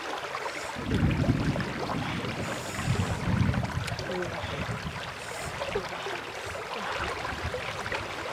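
Water splashing and sloshing, with two heavier low surges about a second in and around three seconds in, over a steady run of small clicks.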